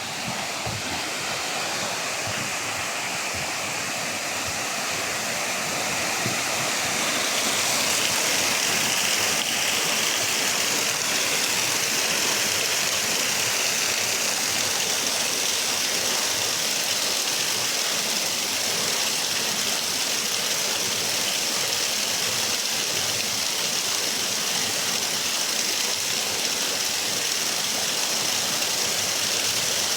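Waterfall: a steady rush of falling water, growing louder over the first several seconds and then holding steady.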